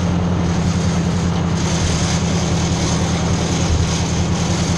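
Ford 600 tractor's four-cylinder engine running steadily under way in third gear, a constant low drone.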